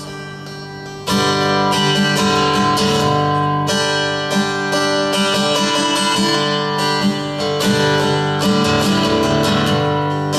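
Acoustic guitar strumming chords in an instrumental break of a song, with no singing. A quieter held chord gives way to full, steady strumming about a second in.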